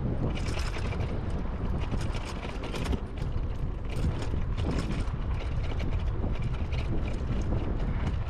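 Electric dirt bike rolling slowly over a dirt trail: irregular clicking and rattling from the bike and the tyres on loose ground, over a steady rumble of wind on the microphone.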